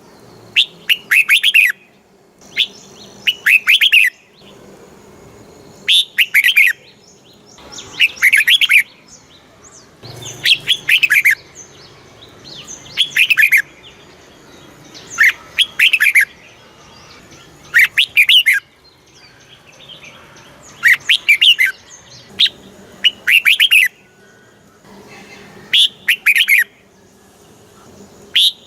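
Red-whiskered bulbul singing: short bright phrases of quick, warbled notes, repeated about every two seconds with brief pauses between.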